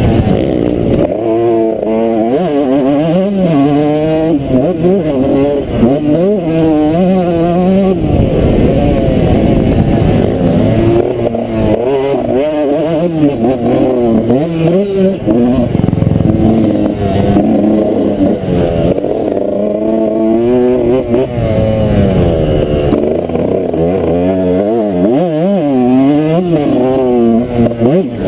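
Suzuki RM125 two-stroke single-cylinder motocross engine, run hard: its pitch repeatedly climbs as the throttle is opened and drops as it is shut off, over and over.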